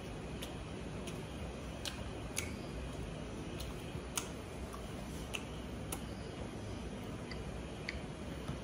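A person chewing a mouthful of boiled pork: scattered sharp mouth clicks and smacks, about one a second at uneven intervals, over a steady low background hiss.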